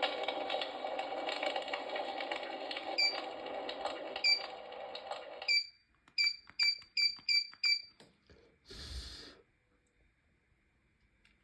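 An electric fireplace's built-in crackling-firewood sound effect playing, a steady hiss full of small crackles, which cuts off suddenly about halfway through. After it come about six sharp clicks, each with a short high chirp, and then a brief burst of noise.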